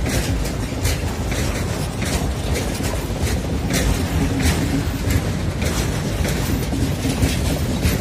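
Freight train of loaded fuel tank wagons rolling past: a steady rumble of wheels on the rails, broken by repeated sharp clicks and knocks from the wheels and running gear.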